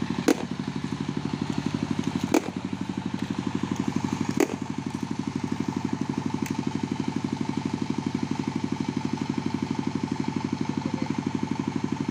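Engine idling steadily with a fast, even pulse. Four sharp clicks or knocks come about two seconds apart during the first half.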